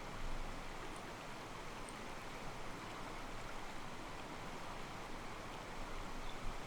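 Small mountain stream flowing over and sloshing against rocks: a steady, soft rush of water.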